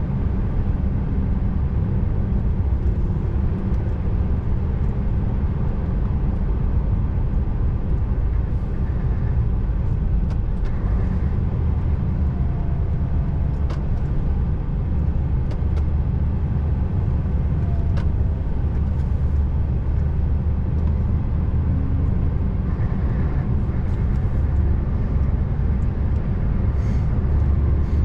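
Scania R590 V8 diesel truck running steadily at road speed, a low engine hum over tyre and road noise that swells a few times, with a few faint clicks.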